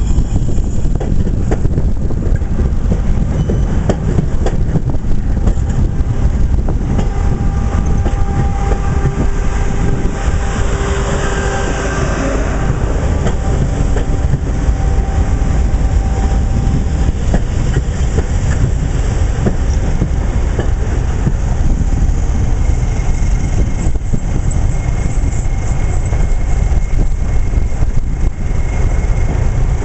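Network Rail test train rolling slowly past along a platform: a steady heavy diesel rumble with wheels running on the rails. The yellow Class 31 diesel locomotive at the rear of the train draws alongside near the end.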